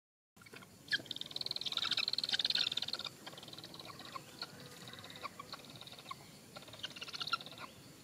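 Bird calls: a rapid, buzzy trill about a second in that lasts some two seconds, then scattered short chirps, and a second, shorter trill near the end.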